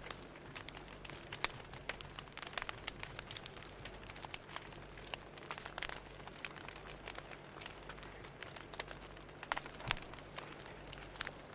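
Fire crackling: irregular sharp pops and snaps, a few each second, over a faint steady low hum.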